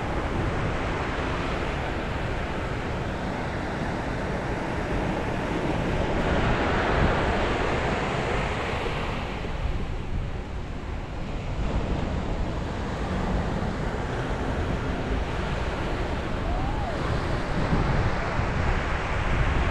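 Sea waves breaking on the shore, a continuous wash of surf that swells and eases, with wind rumbling on the microphone.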